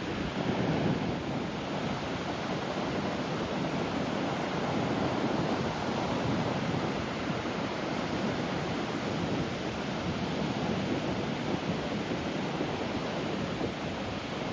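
Sea surf breaking and washing on the shore: a continuous, even rush of water that swells and eases gently.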